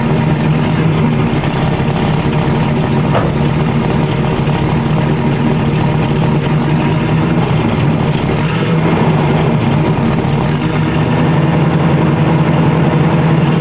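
1972 Oldsmobile Cutlass Supreme's Rocket 350 V8 idling steadily through its factory single exhaust, with a two-barrel carburettor. The engine runs a little rich on a dirty carburettor that needs rebuilding after years of sitting.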